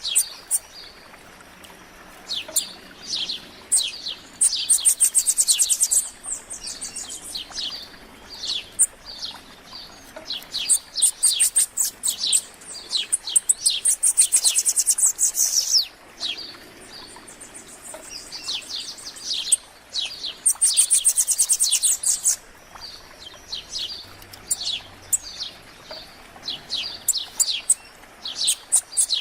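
Wild songbirds of several species chirping and singing, many short high calls overlapping, with three bursts of fast, very high trilled song.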